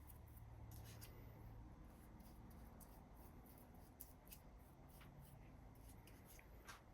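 Near silence with a few faint, scattered light clicks and scrapes of a small metal vise part being handled while paint stripper is worked onto it.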